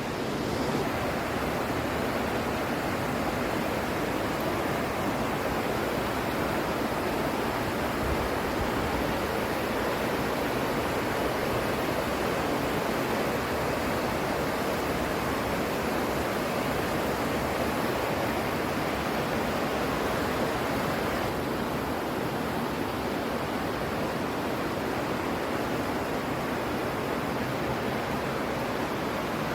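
Burney Falls waterfall: falling water making a steady, even rush, its hiss softening slightly about two-thirds of the way through.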